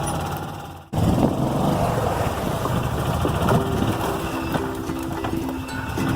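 Four-wheeler (ATV) engine running steadily; the sound fades and breaks off just before a second in, then picks up again.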